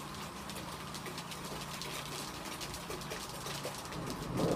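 Rain falling: an even hiss flecked with many tiny drop ticks. A lower sound swells in near the end.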